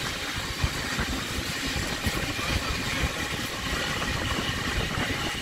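Steady running noise of a steam-hauled passenger train heard from aboard at speed, with irregular low rumbling from wind buffeting at the open window.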